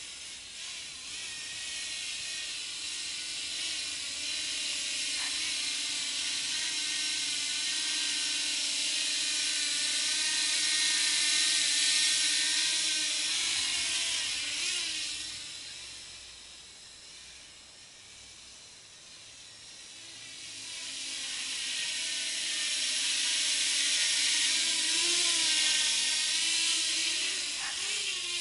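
Small 200 mm quadcopter's brushless motors and propellers whining in flight, the pitch wavering as the throttle changes. It grows loud toward the middle, fades away, and grows loud again near the end.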